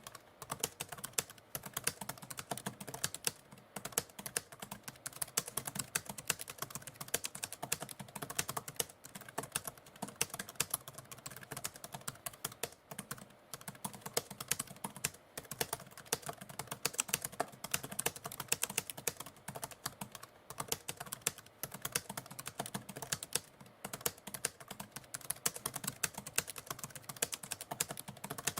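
Typewriter typing: a rapid, continuous stream of key strikes, with a few short pauses.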